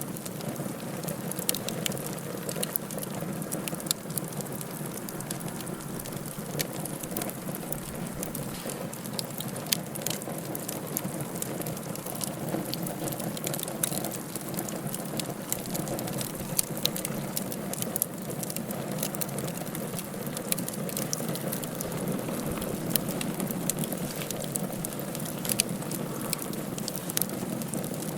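Wood fire burning in a fireplace: a steady hiss with frequent small, sharp crackles and pops scattered irregularly throughout.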